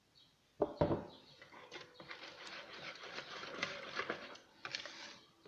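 Thick cake batter being mixed in a bowl once the sifted flour is in: a couple of knocks a little over half a second in, then a run of scraping and clicking strokes against the bowl that stops just before the end.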